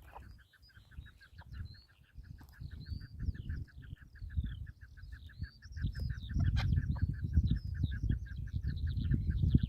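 Partridges calling: a steady rapid run of short notes, about eight a second, with higher chirps and whistled calls over it. Wind rumbles on the microphone, louder in the second half.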